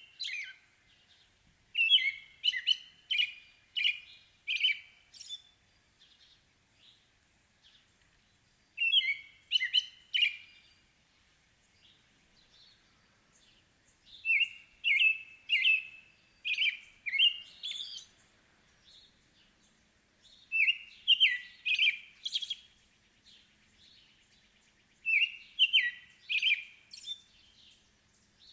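A songbird singing five phrases of quick, high notes, each phrase one to four seconds long, with quiet gaps of a few seconds between them.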